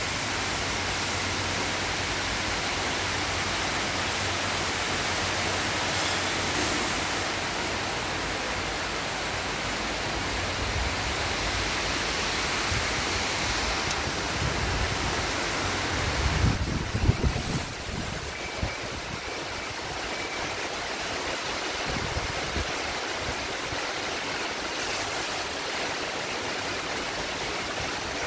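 Heavy rain falling steadily, a dense, even hiss. About two-thirds of the way through there is a brief burst of low rumbling.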